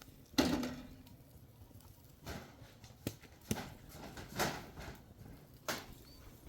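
A series of irregular knocks and thuds, about six in all, the loudest one near the start.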